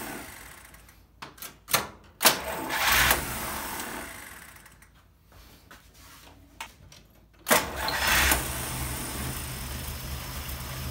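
Vintage Mopar engine being turned over on its starter in edited stretches. A cranking sound fades out at the start, a few sharp clicks come about one to two seconds in, and steady cranking starts suddenly about two-thirds of the way through and cuts off abruptly near the end.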